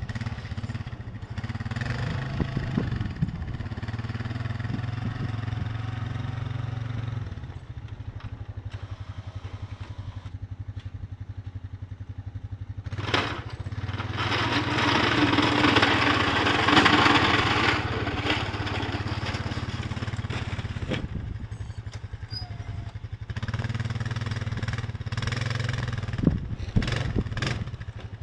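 An engine running steadily with a low hum, and a louder rushing noise over it for several seconds in the middle.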